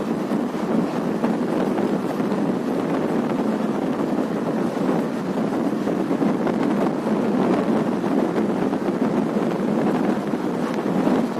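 Steady rushing noise of an Indian Railways express train running at speed, heard from on board, with wind buffeting the microphone.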